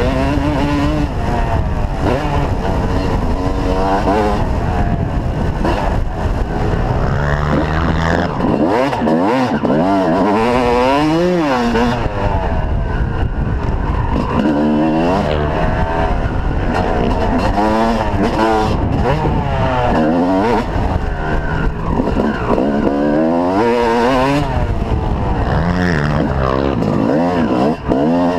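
Yamaha YZ250 two-stroke motocross bike engine revving hard, its pitch climbing and dropping over and over as the rider accelerates, shifts and rolls off around the track.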